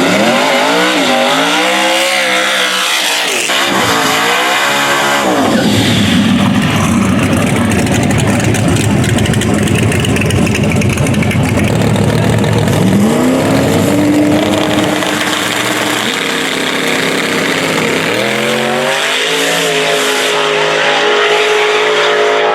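No-prep drag racing cars: engines revving up and down on the line, then a full-throttle run down the track about five seconds in that lasts some eight seconds, followed by an engine pitch rising again and holding steady near the end.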